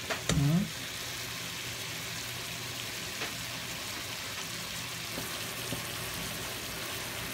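Chicken adobo sizzling steadily in a pan, its sauce cooked down to a thick glaze so the meat is frying. A few light clicks come through, and a short vocal sound comes right at the start.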